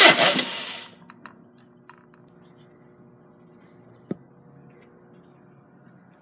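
Starter cranking the Subaru EZ30 3.0L flat-six, with a pulse on each compression stroke, fading away within the first second as the cranking stops. Then near quiet with a few faint clicks and one sharp tick about four seconds in.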